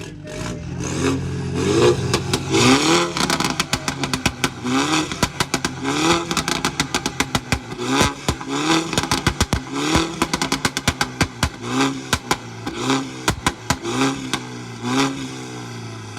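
A modified car engine revved hard in repeated blips, each rising in pitch, with a rapid string of sharp exhaust pops and bangs between them.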